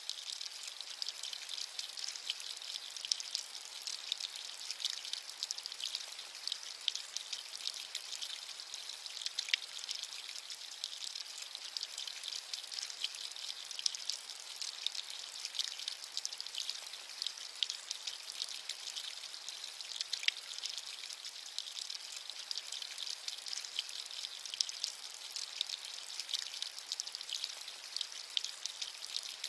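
Steady rain, with a dense sprinkle of small, crisp individual drop ticks over an even high hiss and almost no low rumble.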